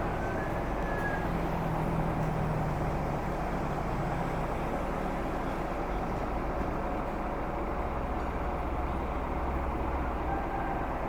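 Scania K410 coach underway: steady engine and road noise. The engine note sits higher for the first few seconds and drops lower in the second half.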